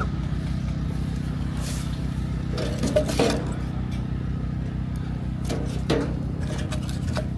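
A steady low mechanical hum, with a few light clinks about three seconds in and again near six seconds.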